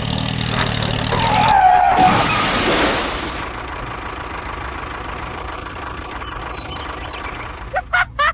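A vehicle engine running steadily, then a short falling tone and a loud rushing burst of noise about two seconds in, settling to a lower steady rumble. A voice starts near the end.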